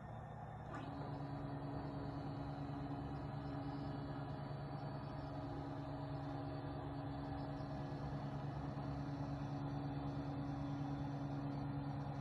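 Nema 17 stepper motors of a homemade CNC router, driven by DRV8825 drivers with microstepping enabled, running with a steady hum of several pitches. It starts with a click a little under a second in.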